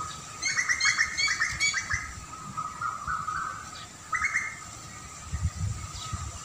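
Wild birds chirping: a rapid run of bright chirps lasting about a second and a half, then softer, lower notes and another short burst of chirps. A faint steady high tone sits under them, and a low rumble comes near the end.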